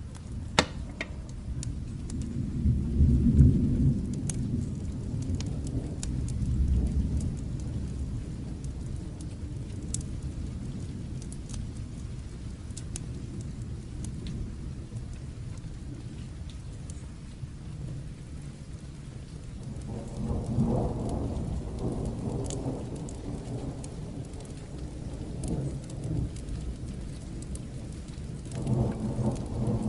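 Steady rain with rolling thunder rumbling in low swells, loudest about three seconds in and building again past the middle and near the end. Scattered sharp crackles sound over the rain.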